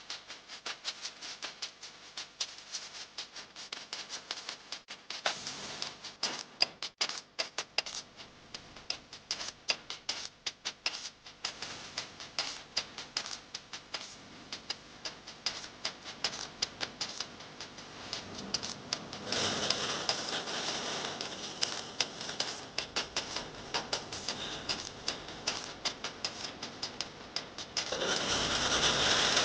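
Hot frying oil crackling and popping in quick, irregular ticks. It breaks into a louder sizzle about two-thirds of the way through and again near the end, as batter for bolinhos de chuva goes into the oil.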